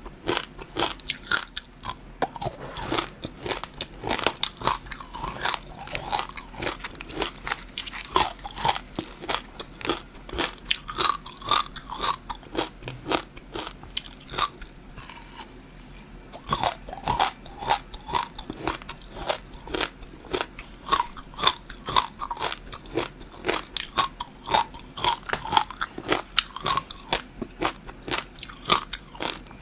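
Close-miked eating: a person biting and chewing food with steady crunching and many sharp mouth clicks, easing off briefly about halfway through.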